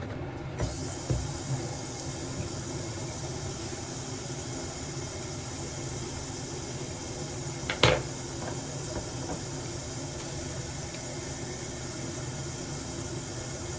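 Steady low rumble and hiss of a car cabin, with one sharp click about eight seconds in.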